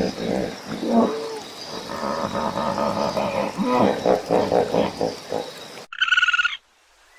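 Hippopotamus calling: a run of low, pulsing calls that bend up and down in pitch. About six seconds in, it cuts abruptly to a short, high-pitched trilling call from another animal.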